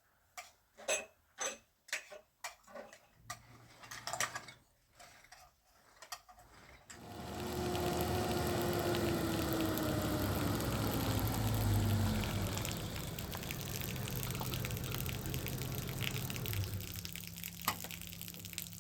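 A few seconds of scattered clinks and knocks, then water running steadily from about seven seconds in.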